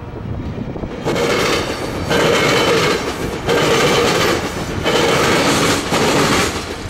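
Tri-Rail commuter train passing, its wheels running loudly over the rails in uneven surges about every second and a quarter. The sound begins about a second in.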